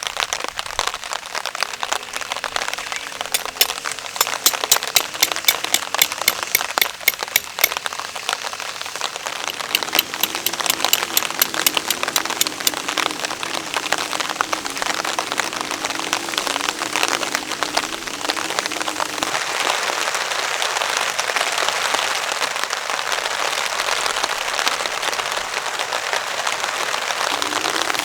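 Heavy rain falling on a camping tarp, a dense steady hiss of rain. From about three seconds in to about halfway through, large drops land close by with sharp, rapid ticks.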